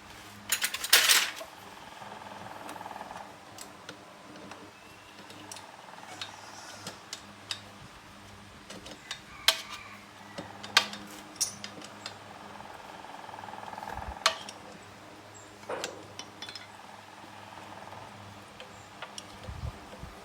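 Metal hand tools and motorbike parts clinking and clattering during repair work, with a loud clatter about a second in and scattered clinks after, over a steady low hum.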